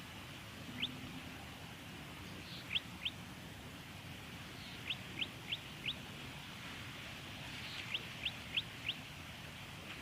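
Golden-headed cisticola giving short, sharp upward-sweeping call notes, first singly, then in quick runs of two and four, over a steady background hiss.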